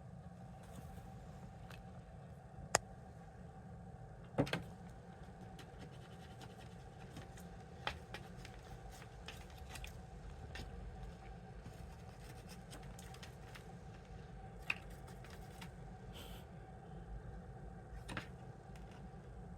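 Steady low household hum with a handful of sharp clicks and small knocks scattered through it, the loudest about three and four and a half seconds in.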